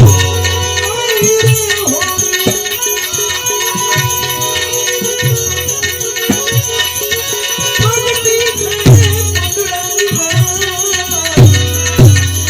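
Instrumental passage of Gujarati devotional folk music: a held, gliding melody line over low drum strokes and fast light percussion clicks. The drum strokes come thicker near the end.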